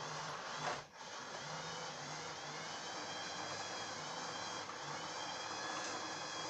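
Lima Class 37 model locomotive running along the track, a steady electric motor whine with wheel and gear rattle on the rails. There is a brief knock under a second in.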